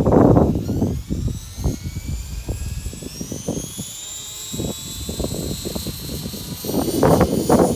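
Radio-controlled helicopter's high whine climbing in pitch as the rotor speeds up, under heavy wind gusts buffeting the microphone that are loudest at the start and again near the end.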